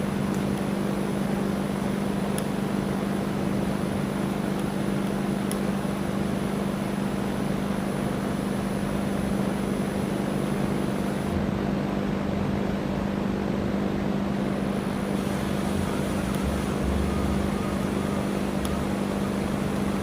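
Electric drill motor running steadily under load with an unbroken hum.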